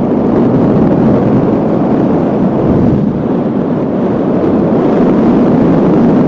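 Loud, steady wind noise on the microphone of a paraglider pilot's camera in strong wind.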